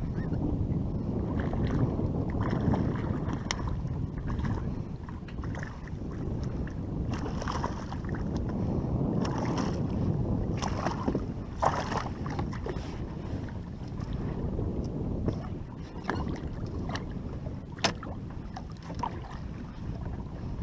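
Wind rumbling on the microphone on open water, with scattered light knocks and clicks, the sharpest one about eighteen seconds in.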